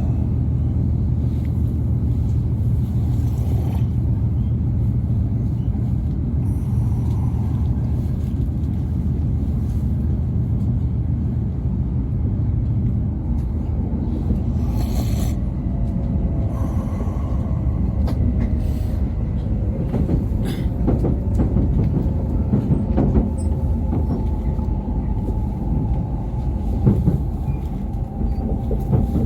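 E5 series Shinkansen running at speed: a steady low rumble from the train, with a faint thin tone coming in about halfway through and a few light clicks.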